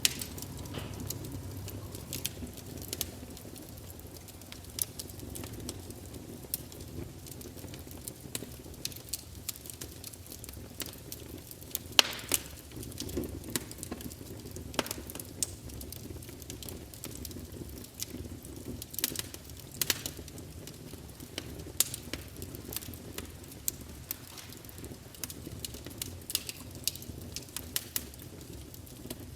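Campfire burning with a steady low rumble and irregular crackles and pops of burning wood, one sharper pop about twelve seconds in.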